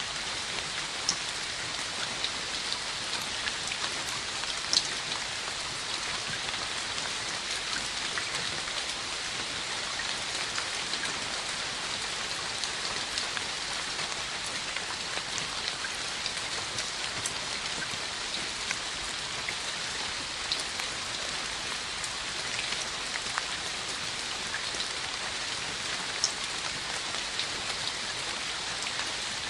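Steady rain falling, an even hiss, with a few louder individual drops striking sharply now and then.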